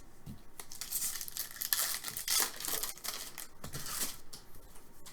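Plastic wrapper of a trading card pack crinkling and tearing as it is opened, a run of crackly rustles through the middle of the stretch.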